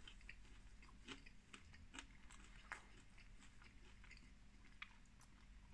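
Quiet chewing of a mouthful of waffle fry with cheese and sauce: soft wet mouth sounds with a few faint sharp clicks spread through it.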